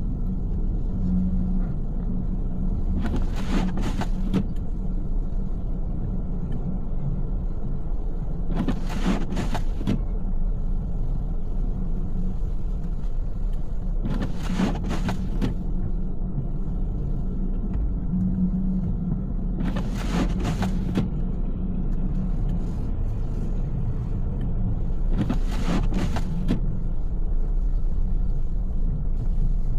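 Steady road rumble of a car driving through snow. About every five and a half seconds the windshield wipers sweep across the glass, each pass lasting about a second.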